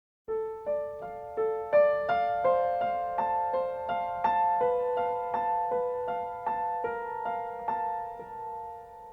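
Piano music: a gentle melody of evenly spaced single notes, about three a second, starting just after the beginning and left to ring out and fade near the end.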